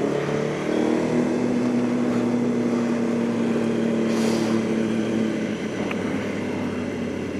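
Motorcycle engine running at a steady pitch while riding, heard over road noise; the tone eases off slightly after about five seconds. A brief hiss comes about four seconds in.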